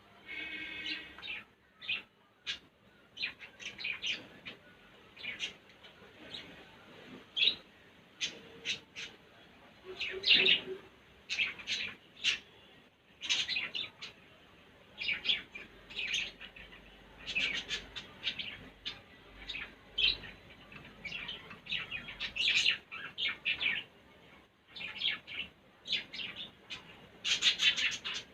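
Pet parrot chirping and calling in short, high notes again and again, in irregular clusters, with a denser run of calls near the end.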